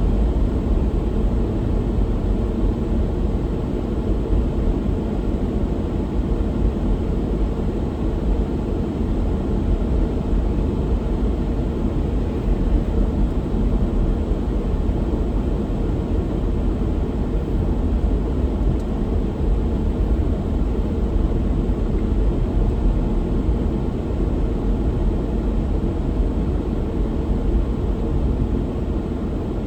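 A car driving along, a steady low rumble of road, tyre and engine noise with no change.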